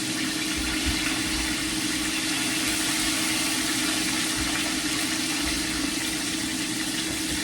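Chicken pieces frying in a pan of hot oil: a steady sizzle with a low hum underneath.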